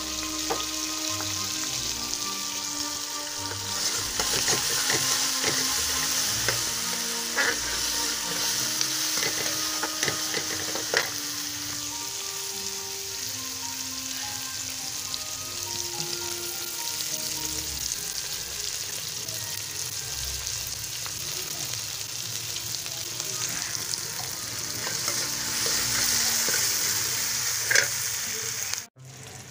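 Sliced onions and green chillies with ginger-garlic paste sizzling in hot oil in a metal pan, stirred with a metal spoon that scrapes and clicks against the pan now and then. The sizzle swells louder twice and cuts out briefly near the end.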